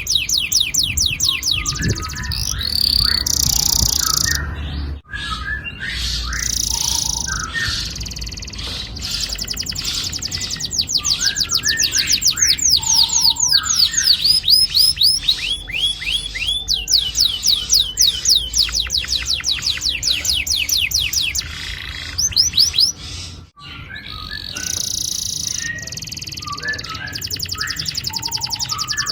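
Domestic canary singing a long rolling song: fast trills of rapidly repeated sweeping notes mixed with short chirps, breaking off briefly twice.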